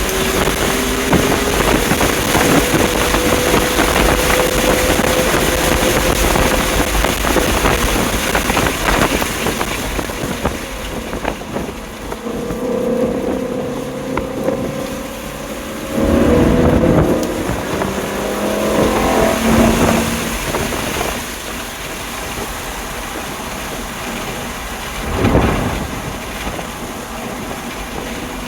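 A stock 2020 BMW M2 Competition's twin-turbo straight-six driven on track, its note rising and falling with throttle and gear changes over constant wind and road noise. Several louder surges come in the second half.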